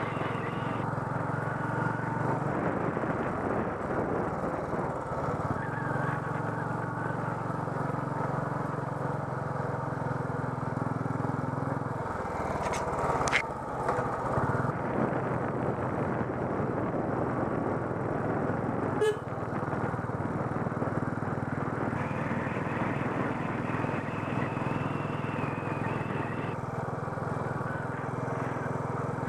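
Royal Enfield Bullet Electra 350's single-cylinder four-stroke engine pulling steadily uphill under way, heard from the rider's helmet. The engine note dips briefly near the middle, and two short sharp clicks stand out, one just after the middle and another a few seconds later.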